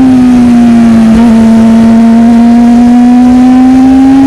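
Sport motorcycle engine pulling at steady high revs under the rider, its pitch sagging slightly and then climbing gradually, with wind rush. A sweet-sounding note from the bike since its fuel injection was changed.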